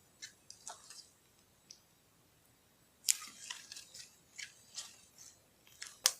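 Sparkly slime being handled: a scatter of small sticky clicks and pops. A denser run of them comes about three seconds in, and a sharp, louder pop comes near the end.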